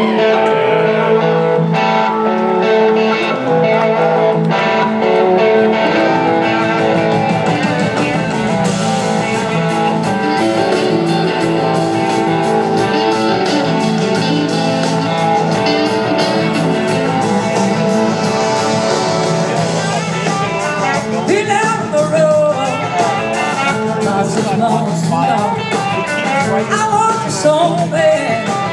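A large blues-rock band playing live: electric guitar leading over bass, drums and sustained chords, with wavering, sliding lead lines in the second half.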